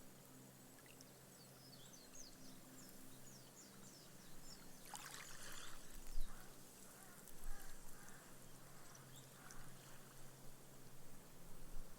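Small, gentle sea waves washing up on sand and fizzing away as foam as the water soaks in, with the loudest wash about five seconds in. A bird gives a quick run of short high chirps in the first few seconds, over a faint low hum.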